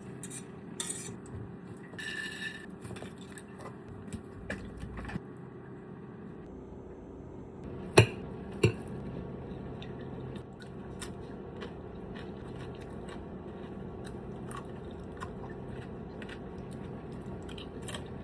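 Mealtime table sounds: scattered small clicks and scrapes of dishes and utensils, with two sharp knocks a little under a second apart about eight seconds in, over a steady low hum.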